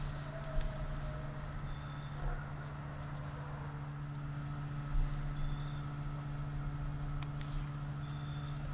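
Steady mechanical hum, with a faint short high beep recurring about every three seconds and a couple of faint knocks.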